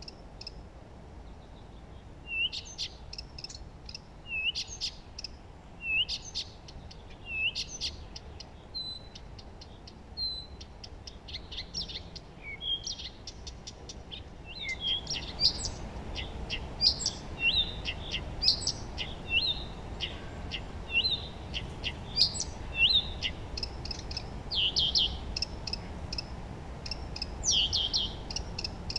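Songbirds singing: one bird repeats a short chirping phrase every second and a half or so, and from about halfway more birds join in, making a denser chorus of overlapping chirps.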